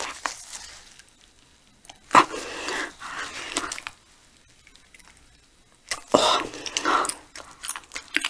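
Close-miked biting and chewing of a piece of sea hare, in two bouts, about two seconds in and again about six seconds in, with a quiet stretch between.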